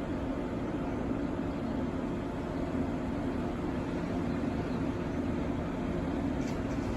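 Steady hum of an electric train standing at the station, a low drone with a few held tones and no change in pitch or loudness.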